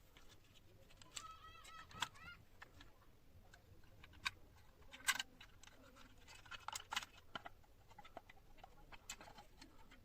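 Scattered light clicks and taps of small parts and tools being handled while an old electric clothes iron is worked on, with a short animal call with a few rising notes about a second in.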